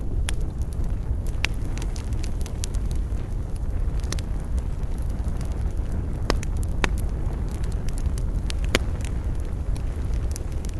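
Wood campfire crackling, with irregular sharp pops and snaps over a steady low rumble of flame.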